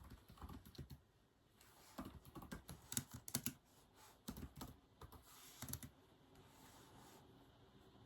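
Typing on a keyboard: quiet, irregular runs of key clicks broken by short pauses.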